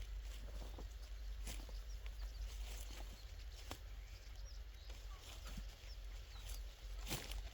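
Scattered short knocks and rustles over a steady low rumble, with faint high chirps now and then.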